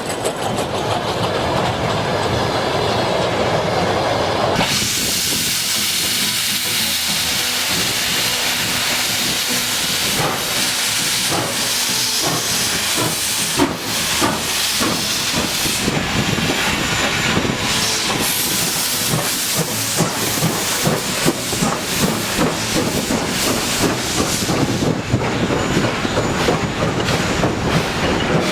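Steam locomotive at work: a loud hiss of steam starts suddenly about five seconds in and carries on. Short knocks and chuffs grow more frequent through the second half.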